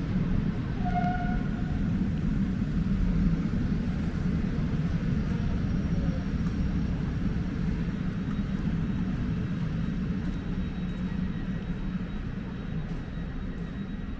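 Steady low rumble of a train at the station, slowly growing quieter, with a short high tone about a second in.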